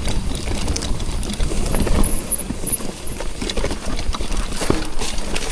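Mountain bike riding over a rough, stony trail: tyres crunching and the bike rattling with many irregular knocks over a low rumble.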